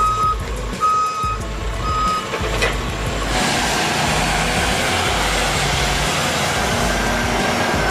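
Heavy vehicle's reversing alarm beeping about once a second, three beeps, over a low engine rumble. From about three seconds in the beeping stops and a loud steady rushing noise takes over.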